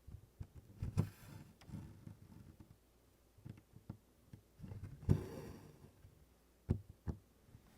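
Needlework on stiff 24-count canvas: small ticks and taps of the needle going through the canvas, and DMC embroidery floss pulled through with a short rasping swish twice, about a second in and again about five seconds in.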